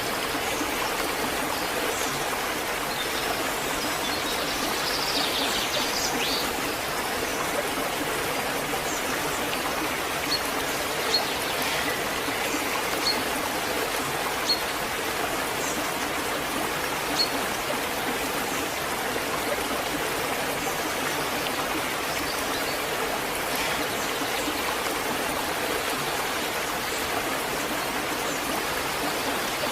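Waterfall: water falling and rushing in a steady hiss, with a few faint brief splashes or drips partway through.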